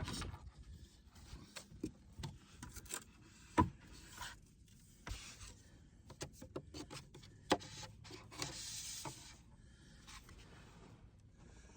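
Scattered small clicks and knocks with bouts of rubbing and scraping from PEX pipe, fittings and tools being handled at close range. The two sharpest knocks fall about a third and two thirds of the way through, and a longer scrape comes shortly after the second.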